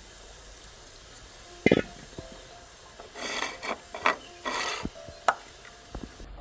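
Kitchen handling sounds: a sharp knock of cookware about two seconds in, then two short scraping, rustling strokes with a few sharp clicks between them, as of stirring or scraping in a pot.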